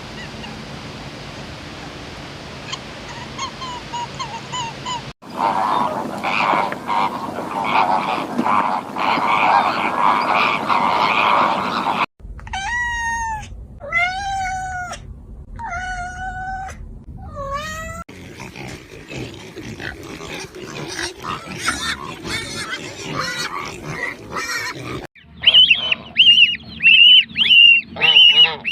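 A run of short clips of farm animals calling, joined by sudden cuts: a dense stretch of overlapping calls, then about five clear, drawn-out calls that rise and fall in pitch, then another busy stretch, and rapid, high, repeated honking calls near the end.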